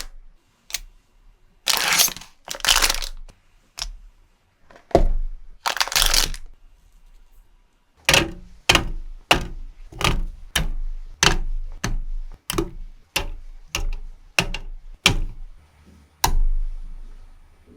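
Pop Mart blind-box toy packaging being handled: a few short rustling bursts, then a regular run of about fifteen sharp cracks or clicks, roughly one every 0.6 seconds.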